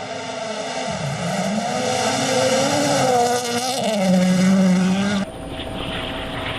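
Rally car engine running hard, its pitch rising and falling with throttle and gear changes. About five seconds in the sound cuts abruptly to a quieter, steadier engine sound.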